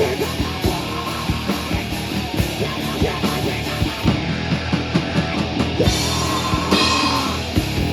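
Live rock band playing loud, with a drum kit hitting a busy beat under electric guitar.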